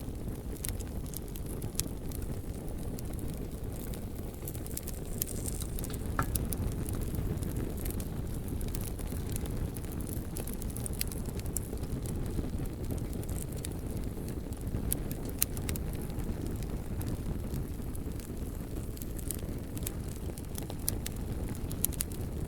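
Bonfire burning: a steady low rumble of the flames with scattered sharp crackles and pops of the burning wood, a few louder pops standing out.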